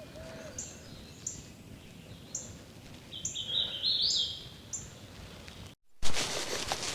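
Songbirds singing in spring woodland: short, thin, high notes repeated every second or so, with a quick run of notes stepping up in pitch about halfway through. Near the end the sound drops out briefly, then rustling and scattered clicks follow.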